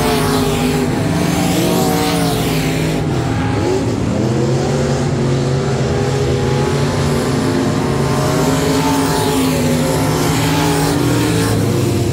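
Several race car engines running on a dirt oval during hot laps, their pitch rising and falling as they throttle through the turns and down the straights.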